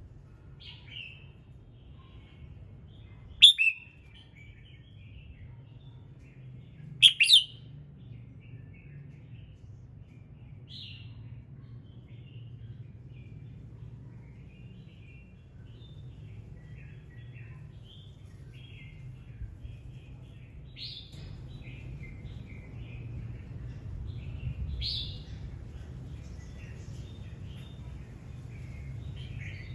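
Red-whiskered bulbul singing: short, loud, clear phrases about three and a half and seven seconds in and again twice in the second half, with many softer chirps between, over a low steady background hum.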